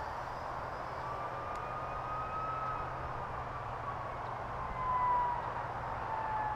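X251 quadcopter's motors whining, their pitch slowly rising and then falling as the throttle changes, with a brief swell about five seconds in, over wind noise.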